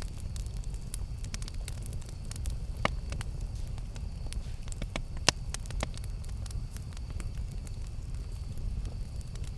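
Wood campfire crackling: irregular sharp pops and snaps over a low steady rumble of the burning fire, with the loudest pop about five seconds in.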